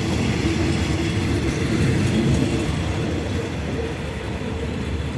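Train rolling by on the rails, with a low rumble of engine and wheels that slowly fades.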